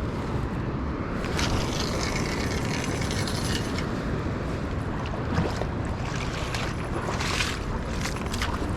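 Steady rushing of wind and river water, with a few sharp knocks of footsteps on rocks.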